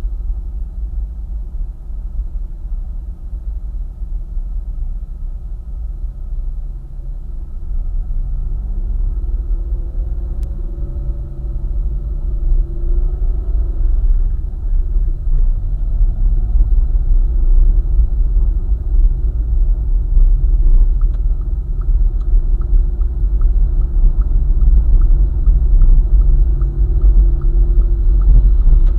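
A car driving on a highway: a steady low rumble of road and engine. The engine note rises about a third of the way in as the car speeds up, and the rumble grows louder after that.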